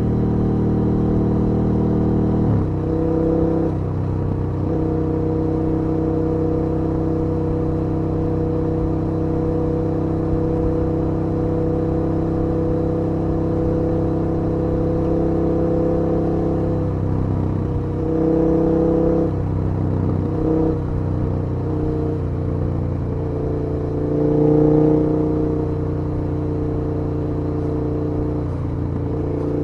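KTM 1290 Super Duke R's 75-degree V-twin engine running on the move at a steady cruise. Its note steps down about two and a half seconds in, dips and shifts again around eighteen to twenty seconds, and briefly rises about twenty-five seconds in as the throttle changes.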